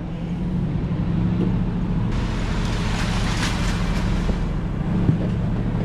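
A motor vehicle's engine running with a steady low hum. A rush of wind or road noise swells for a couple of seconds in the middle.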